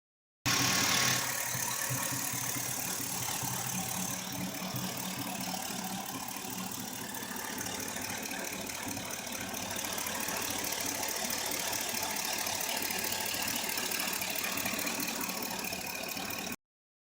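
2006 Chevrolet Silverado 5.3L V8 engine running steadily at idle, with a fast, fine ticking throughout. The sound starts abruptly and cuts off near the end.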